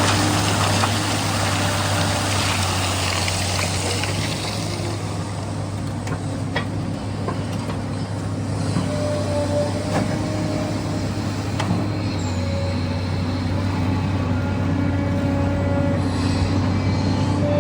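SANY excavator's diesel engine running steadily under load, its pitch shifting slightly as the hydraulics work, with a hissing rush that fades over the first few seconds and a few sharp knocks.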